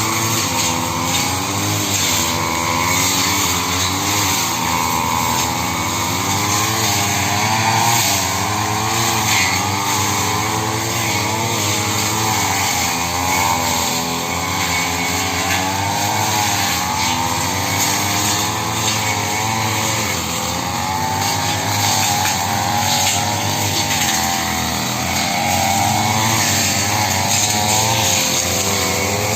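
Brush cutter engine running continuously while cutting grass and undergrowth. Its pitch keeps rising and falling a little as the cutting load changes.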